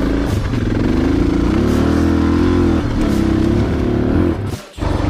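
Suzuki DR dual-sport motorcycle engine running at low speed on a loose trail, its revs rising and falling with the throttle. The sound drops out briefly near the end, then comes back.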